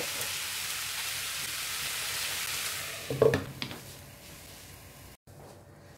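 Grated tapioca sizzling in a pan of hot coconut oil. About three seconds in, a glass lid clinks down onto the pan in a few sharp knocks, and the sizzle drops to a faint hiss under the lid.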